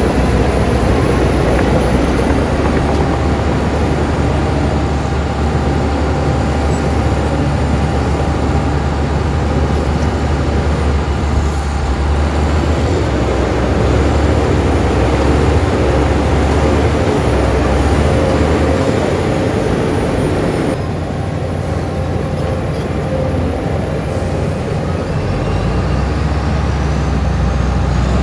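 Diesel engine of heavy earthmoving machinery running steadily under work, loud and continuous, with a drop in level for a few seconds about three-quarters of the way through.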